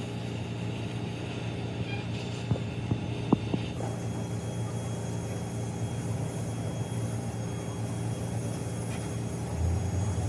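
A motor running steadily with a low hum, with a few short knocks about two and a half to three and a half seconds in.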